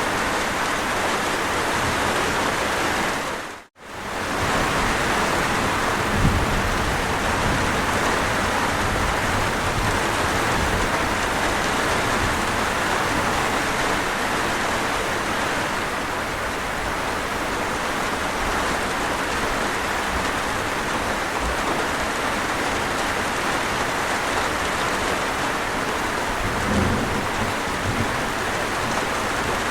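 Steady heavy rain, with low rumbles of distant thunder about six seconds in and again near the end. The rain cuts out for a split second just before four seconds in.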